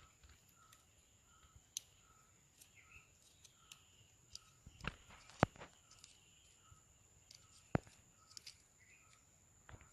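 Quiet ambience: a short high chirp repeats about one and a half times a second over a steady high whine, with scattered sharp clicks and taps, the loudest about five and a half and eight seconds in.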